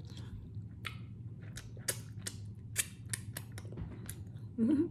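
Close-miked eating sounds: chewing with a string of sharp, irregular wet mouth clicks and lip smacks over a steady low hum. Near the end a short hummed "mm" with a wavering pitch.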